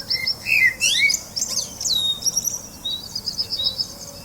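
Songbirds chirping and calling, with quick rising and falling whistles in the first two seconds, then a run of short, evenly repeated high notes.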